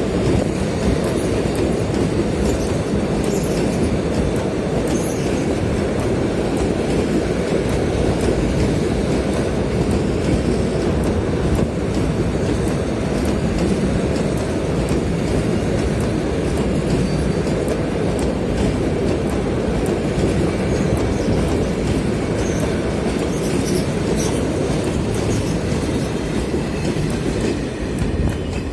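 Military freight train of flat, low-loader and covered wagons rolling past, a steady loud rumble of wheels on rail with clickety-clack over the joints.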